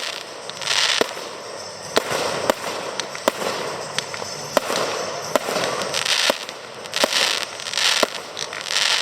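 Aerial fireworks display: shells bursting with sharp bangs every half second to a second, mixed with short bursts of crackling hiss from the stars.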